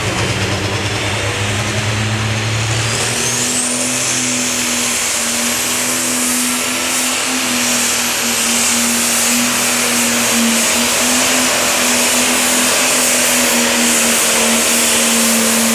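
Super stock pulling tractor's engine running flat out under load during a pull, with a turbocharger whine rising about three seconds in and then holding high over the engine's steady tone.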